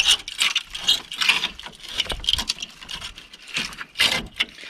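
Irregular scraping and light clattering, a run of short knocks and rattles with a sharper clack about four seconds in, as of metal and debris being handled.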